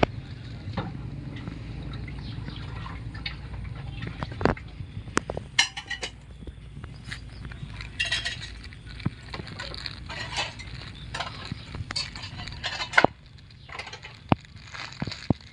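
Irregular clinks and knocks of dishware, some with a brief ring, over a low steady hum that stops near the end.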